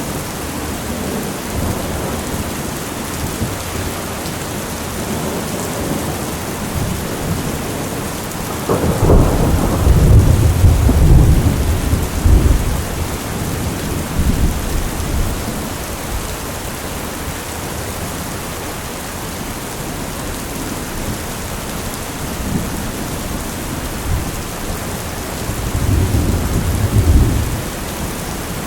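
Heavy steady rain with thunder: a loud rolling rumble about nine seconds in that lasts several seconds, and a shorter, quieter rumble near the end.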